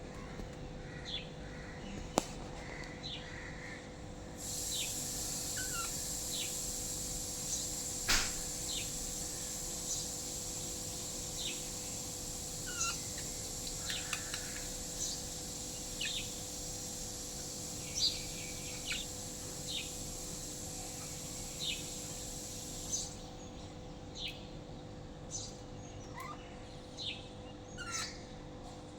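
Lovebirds chirping: short, high chirps about once a second. A steady hiss runs through most of the middle and a faint low hum underneath, with a couple of sharp clicks early on.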